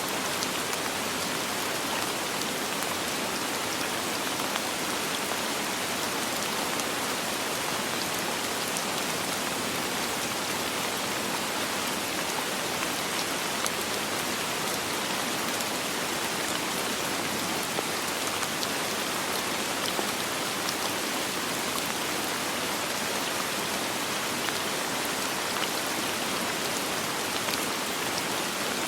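Steady soft rain falling: an even hiss with faint scattered drop ticks, without thunder.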